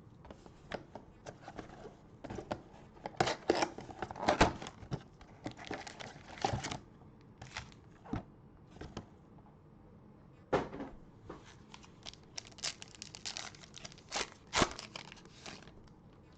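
Crinkly plastic and foil wrapping on a box of football trading-card packs being torn open and handled, in irregular bursts of crackling and tearing with a lull in the middle.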